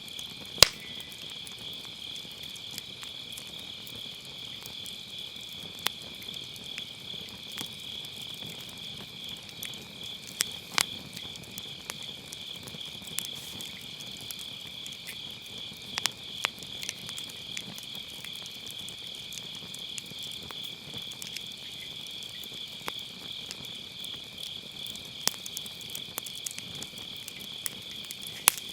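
Grass insects trilling steadily on an autumn night, over a firewood fire that crackles and pops now and then. The sharpest pop comes about half a second in, with smaller ones around 6, 11, 16 and 28 seconds.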